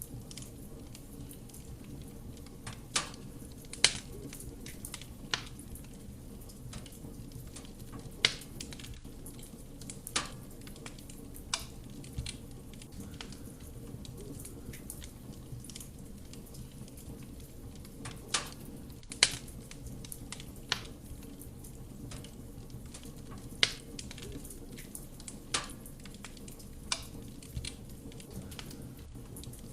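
Wood fire burning in a fireplace: a steady low rumble from the flames, with sharp crackles and pops from the burning wood at irregular intervals. The loudest pops come about four seconds in and again about two-thirds of the way through.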